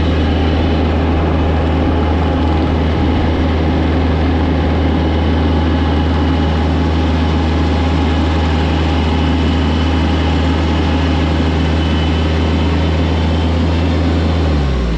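Engine running at a steady speed, its low drone holding one pitch, then dropping in pitch and fading near the end as it slows.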